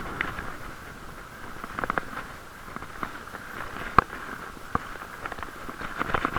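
Irregular sharp clicks and taps on a camera's plastic waterproof case, the loudest about four seconds in, over a steady rush of wind and riding noise.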